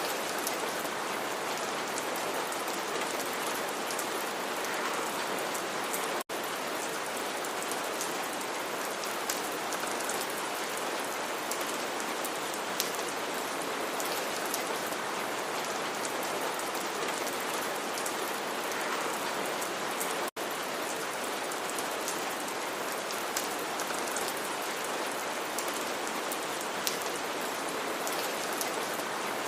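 Steady rain falling on a surface, with scattered louder drops ticking through it. The sound drops out for an instant twice.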